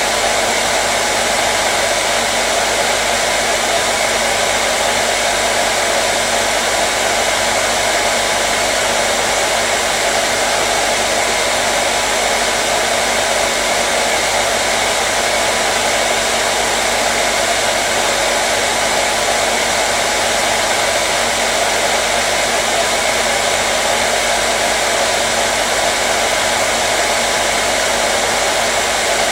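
Hair dryer running continuously at a steady speed: an unchanging blowing whoosh with a faint motor hum beneath it.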